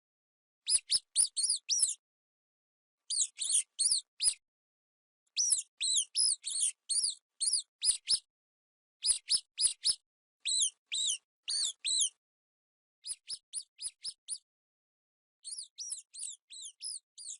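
Mice squeaking: short, high-pitched squeaks in quick runs of three to six, each run broken off by a short silence and then starting again.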